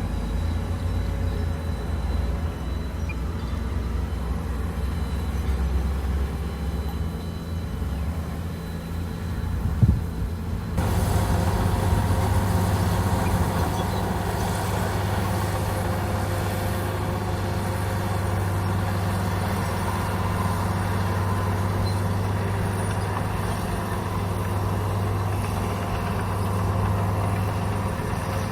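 Heavy diesel engine of a Komatsu bulldozer running with a steady low hum. About ten seconds in there is a sharp knock, and just after it the sound turns louder and brighter and stays that way.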